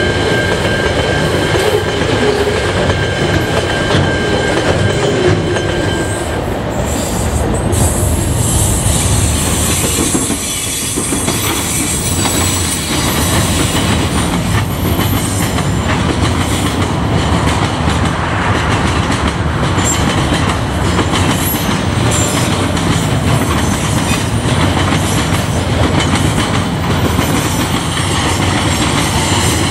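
Freight train wagons loaded with steel rolling past, wheels clattering and rumbling on the rails. A steady high wheel squeal runs for about the first six seconds and stops; thinner high squeals come and go after that.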